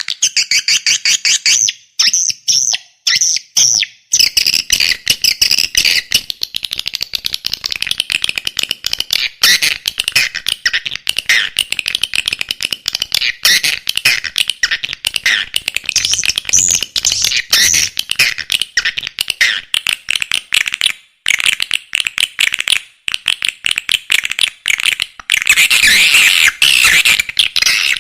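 Swiftlet calls, the lure sound played in swiftlet houses: a loud, continuous chatter of very rapid clicks and high chirping twitters. There are a few brief breaks, and it grows denser near the end.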